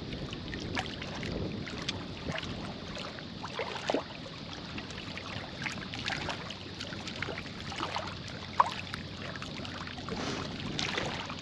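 Steady wash of river current over rocks, with scattered small splashes and clicks and one sharper click about three quarters of the way through.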